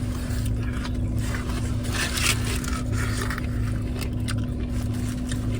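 Rustling and scraping of burrito wrappers and food being handled while eating, in short irregular bursts over a steady low hum.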